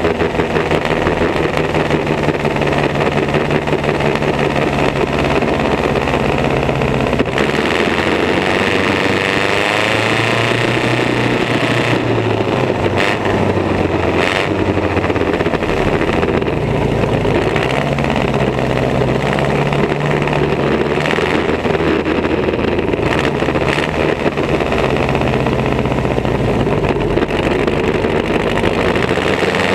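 Vintage race car engines running, their pitch shifting up and down.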